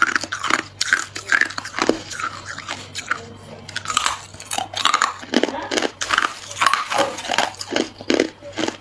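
Hard ice cubes being bitten and chewed close to the microphone: repeated sharp crunches and cracking, several a second.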